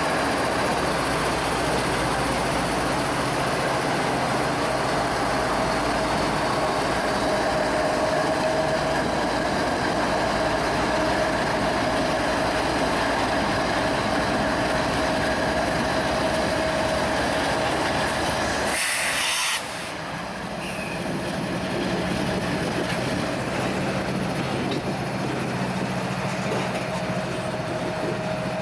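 Train cars rolling past with a steady wheel squeal held on one tone. The sound breaks off abruptly about two-thirds of the way through, then carries on.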